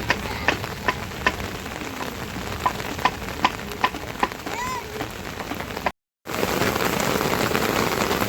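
Rain falling, with single drops clearly heard splashing at first. After a brief break about six seconds in, the rain comes as a denser, steadier patter.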